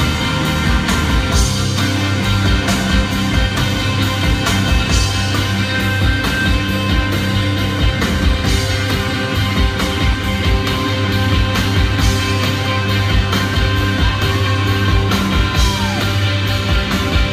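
Live rock band playing: distorted electric guitars over bass and a steady, driving drum beat. Near the end one sustained guitar note bends down in pitch.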